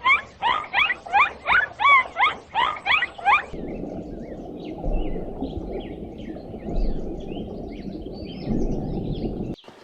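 Animal calls: first a fast run of loud, repeated calls, each rising sharply in pitch, about three a second. These are followed by faint, quick high squeaks and chirps over a steady low rumble, and the sound cuts off abruptly near the end.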